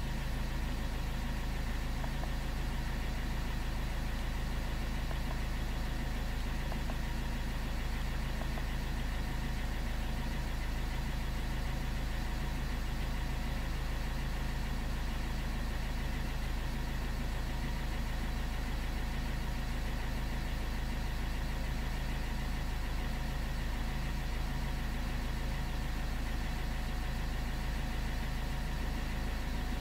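Car engine idling steadily, a low, even rumble with no change in speed.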